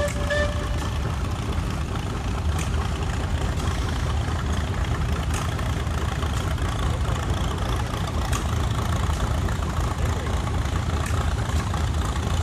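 Steady low engine rumble of show machinery running, with a few faint clicks.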